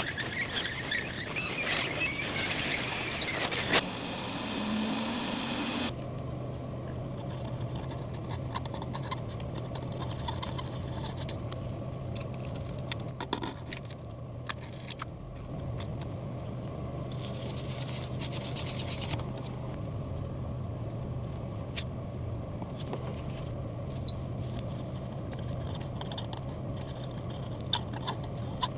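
Bench sounds during laptop motherboard microsoldering: a steady low hum with scattered small clicks and scrapes of tools. There is a stretch of hiss in the first few seconds and another about two-thirds of the way through.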